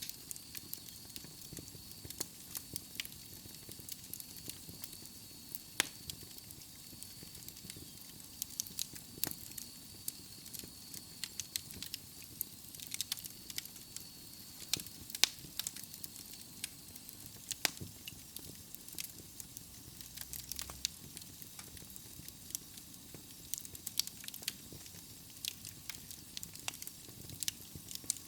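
Wood logs burning in a fireplace: a steady soft hiss of flame with irregular sharp crackles and pops from the burning wood, several a second.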